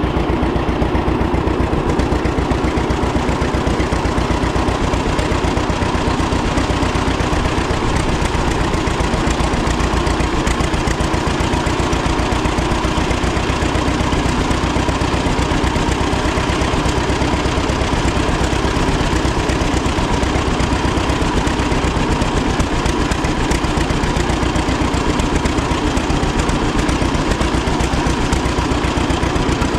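1936 John Deere Model A's two-cylinder engine running at a steady speed, its firing pulses coming in an even rhythm.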